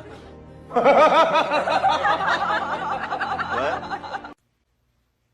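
High-pitched giggling laughter: quick repeated pitched notes, several a second, stopping abruptly about four seconds in.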